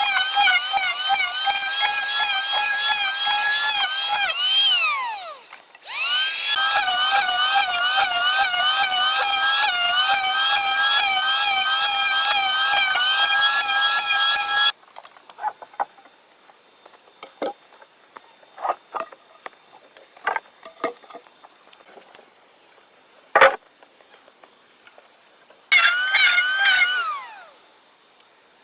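Chainsaw running at high speed through wood, its pitch wavering and dipping under load. It winds down about five seconds in, starts again, and cuts off sharply about halfway. Scattered knocks and clicks follow, one sharp loud knock among them, then a short final burst of the saw that winds down near the end.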